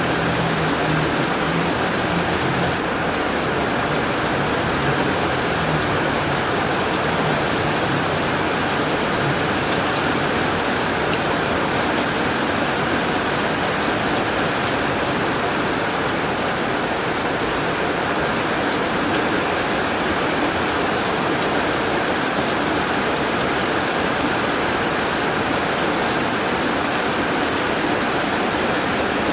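Steady heavy rain falling on a tin roof, a dense even wash with scattered single drop ticks.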